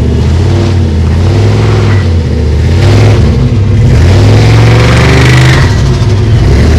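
Car engine running loudly and steadily, its revs and loudness rising a little about three seconds in and then holding.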